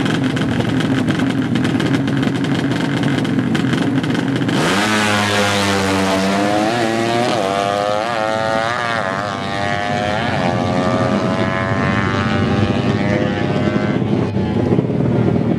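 200cc four-stroke underbone drag bike engine running steadily, then about four and a half seconds in it revs hard and accelerates, its pitch climbing and dropping back several times as it shifts up through the gears before holding a steady high pitch.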